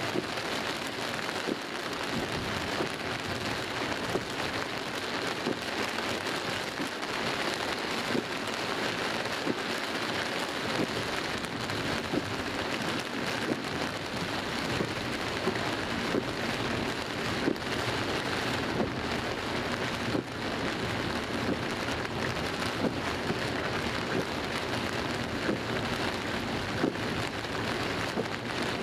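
Heavy rain pelting the car's roof and windscreen, heard from inside the cabin: a steady dense rush dotted with many sharp drop impacts.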